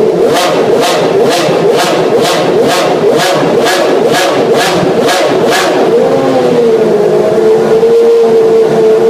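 Honda RA121E 3.5-litre 60-degree V12 of a 1991 McLaren-Honda MP4/6 Formula One car blipped about a dozen times in quick succession, about two a second, each blip a sharp rising and falling rev. It then settles back to a steady high idle about six seconds in.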